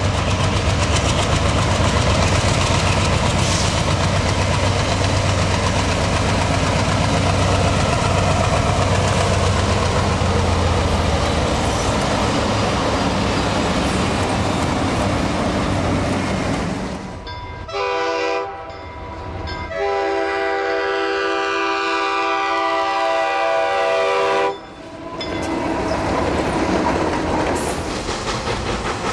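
A freight train led by Alco diesel locomotives passes close by, the engines running hard amid steady rail noise. About two-thirds through, a steam locomotive's chime whistle blows a short blast and then a long one of about five seconds.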